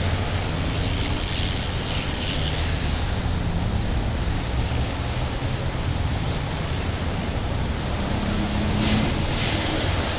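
Van driving along at a steady cruising speed: a constant rush of road and wind noise over a low engine rumble.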